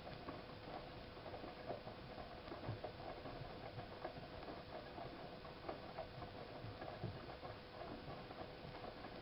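Siemens iQ WIQ1430 front-loading washing machine turning its drum during a 90 °C boil wash: wet laundry tumbling, with irregular soft knocks and clicks over a steady hum. The tumbling sets in right at the start.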